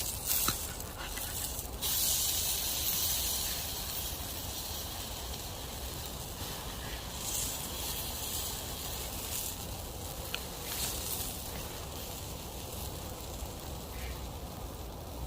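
Tomahawk steak sizzling over an open campfire: a steady high hiss, with a few crackles in the first couple of seconds.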